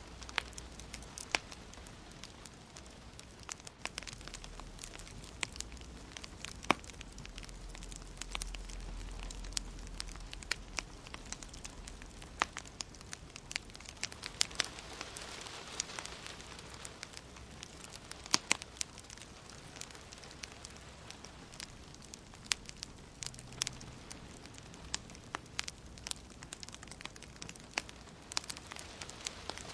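Wood fire crackling, with sharp irregular pops and snaps scattered throughout over a steady soft hiss of gentle rain.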